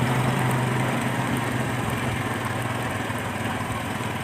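Small motorcycle engine running steadily while riding, with wind and road noise; the low engine hum eases slightly after about a second and a half.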